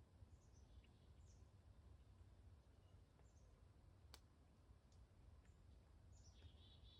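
Near silence in woodland: faint, high bird chirps come a few times, most near the end, over a low steady rumble, with one sharp click about four seconds in.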